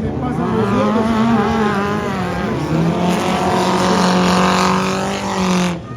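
Racing buggy engines running hard, their pitch rising and falling with the throttle, then one held at high, steady revs for the second half. The sound drops off abruptly near the end.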